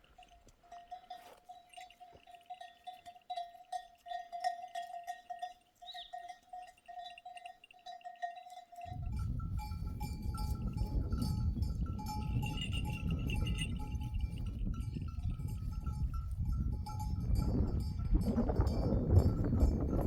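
Sheep bells on a grazing flock clinking and ringing unevenly. About nine seconds in, a loud low rushing noise comes in suddenly and stays under the bells.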